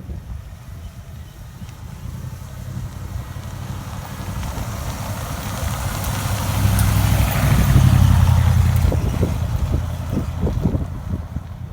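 A car's engine rumbling as it drives past, growing louder to a peak a little past the middle and then fading away.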